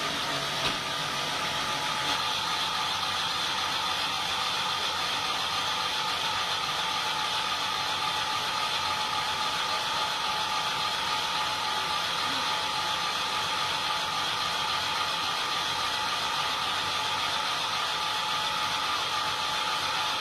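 Sawmill machinery running steadily, a constant whine over an even mechanical rush.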